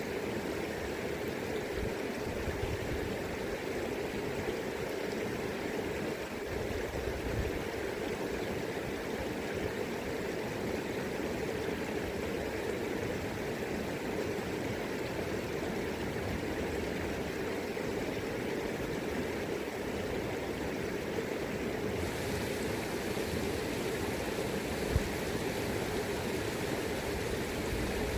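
River current rushing steadily over its bed, with low rumbles of wind on the microphone now and then. About three-quarters of the way through, the hiss of the water turns suddenly brighter.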